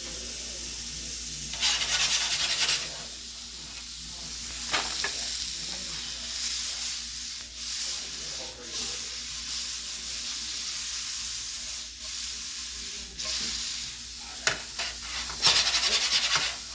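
Sliced mushrooms sizzling in olive oil in a hot frying pan while a utensil stirs them, with a few light clicks. The sizzle swells louder about two seconds in and again near the end.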